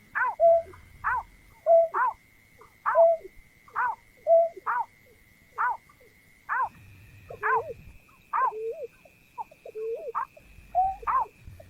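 Greater painted-snipe calling: a steady series of short hooting notes, about two a second, some dipping in pitch, over a faint steady high whine.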